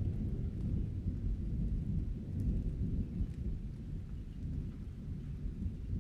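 Thunder rumbling low and continuously, with light rain pattering faintly over it.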